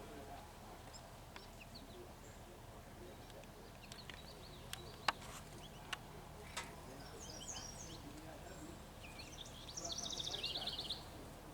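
Small birds chirping in short high notes, with a few sharp clicks midway and a quick trill of rapidly repeated notes near the end.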